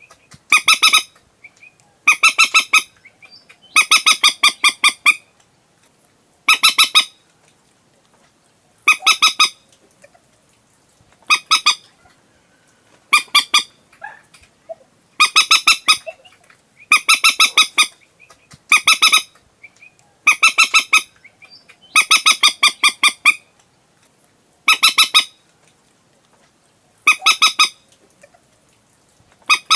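Common moorhen calling: short bursts of rapid stuttering notes, repeated about every two seconds, in a decoy call recording used to lure the birds at night.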